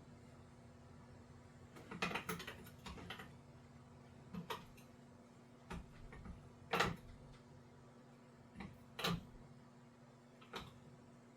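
Scattered metallic clicks and clinks, about seven, irregularly spaced, as a 26 mm wrench tightens a vehicle speed sensor into an NP208 transfer case.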